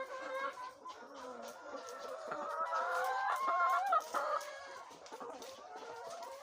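A flock of laying hens clucking and calling over one another, many birds at once, loudest for a stretch about two to four seconds in.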